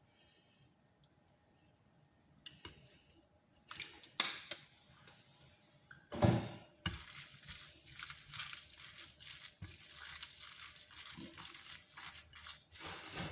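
Ground meat being mixed with a soy sauce marinade, giving wet squishing and crackling with many small ticks. A single loud thud comes about six seconds in, and the mixing noise runs steadily after it.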